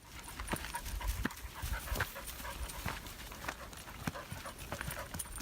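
A dog panting steadily while walking, with irregular footsteps on a dirt trail.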